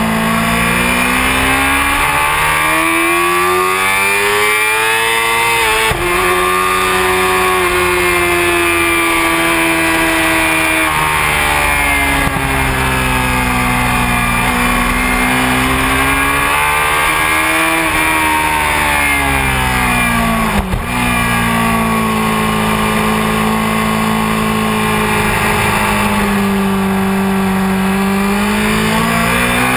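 Sport motorcycle engine heard onboard at speed on a race track, the pitch climbing under acceleration and sinking as it slows for corners, with sudden drops at gear changes about 6 and 18 seconds in. A short knock comes about 21 seconds in.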